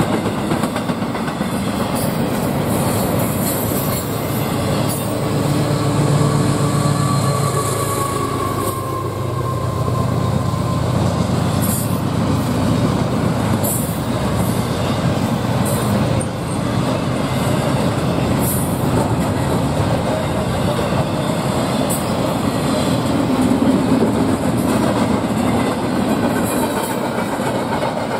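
Freight train cars rolling past steadily, wheels clicking over the rail joints, with a thin wheel squeal about seven seconds in.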